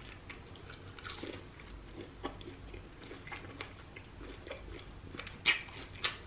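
A person biting and chewing breaded deep-fried seafood: a run of small crunches, with two louder crunches near the end.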